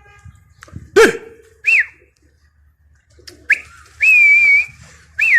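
A person whistling: short rising-and-falling whistles and one held whistle, the calls a pigeon keeper uses on his flock. A loud sharp sound about a second in.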